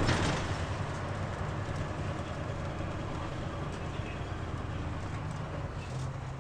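Mitsubishi Fuso KL-MP37JK city bus running, heard from inside the cabin as a steady low engine drone. There is a brief loud rush of noise at the start, and the engine tone steps up near the end.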